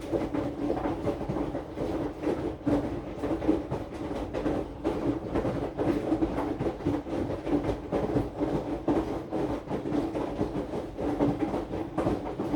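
AQUA AQW-DX12M drum washing machine running, its drum turning a load of laundry with a steady motor hum and irregular knocks and clatter, picked up through the top of the cabinet.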